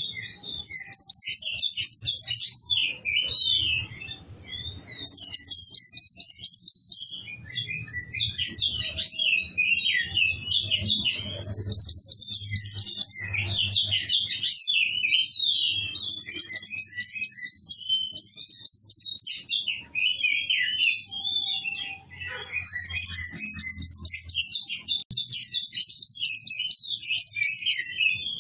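A songbird (kowul) in full song: long fast high trills repeated every few seconds, alternating with quick varied chirps and twitters, without a break.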